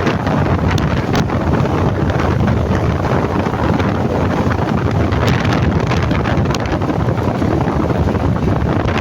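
Steady wind buffeting the microphone on a moving motorcycle, with the road and engine noise of the ride underneath.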